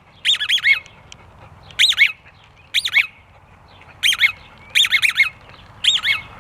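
Rubber squeaky dog ball being chewed, giving short high squeaks in bursts of one to four, each bending up and down in pitch, about once a second.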